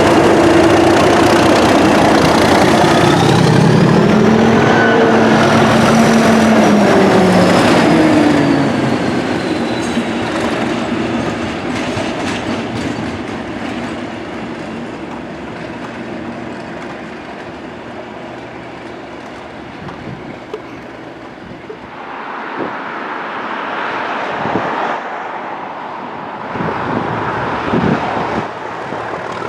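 A train passing close by, loud with a rising then falling engine or traction note for the first eight seconds, then fading as it moves away.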